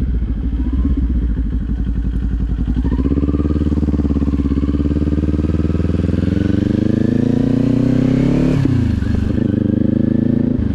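Motorcycle engine under way: it runs low and steady, then the note climbs smoothly for several seconds as the bike accelerates. Near the end it drops suddenly before settling again.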